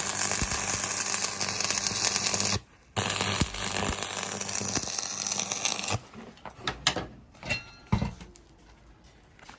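Stick-welding arc crackling in two runs of about two and a half and three seconds, over a steady low hum: tack welds fixing a cleat to the centre of the plates to hold them against weld pull. In the last few seconds, a few sharp taps, one of them ringing briefly.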